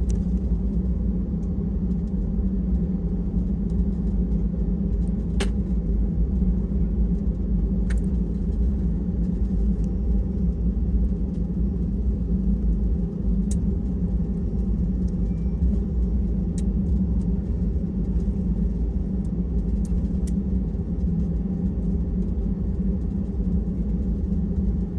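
Steady low hum inside an Airbus A320 cabin with its air-conditioning running while parked, with a few sharp clicks now and then.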